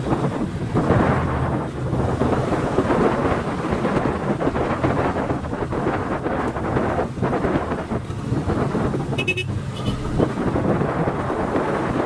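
Motorcycle engine running on the move, with heavy wind buffeting the microphone. A short high two-part beep, like a horn toot, sounds about nine seconds in.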